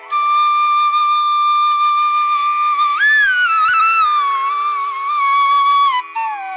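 Background music: a flute plays a slow melody of long held notes with pitch slides over a steady drone. The first long note bends up about halfway through, wavers back down, and drops to a lower note near the end.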